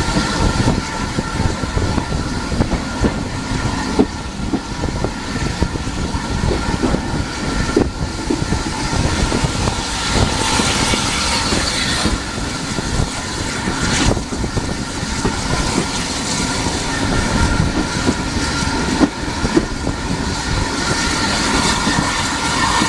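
Heritage passenger train running along the line, heard from aboard: a steady rumble of wheels on the track, with a few sharp knocks from the rails or coach.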